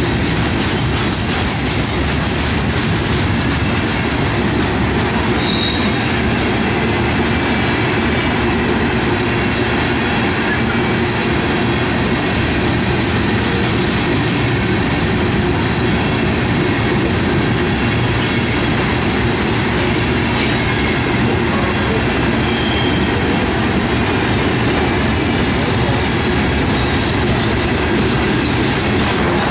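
Loaded Herzog ballast hopper cars rolling past close by: a steady noise of steel wheels running on the rails, with a faint, brief high wheel squeal twice.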